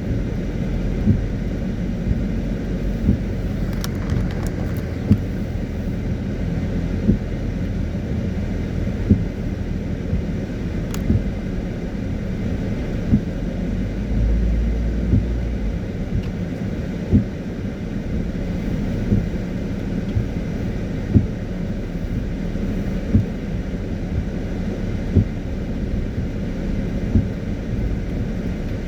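Car driving in the rain: a steady low rumble of engine and tyres on a wet road, with a short knock about every two seconds from the windscreen wipers.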